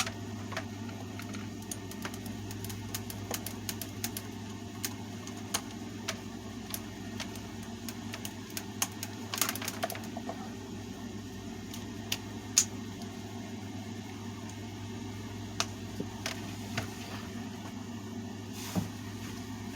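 Scattered light clicks and taps of a screwdriver and the fan's plastic housing parts being handled while the table fan is taken apart, over a steady low hum.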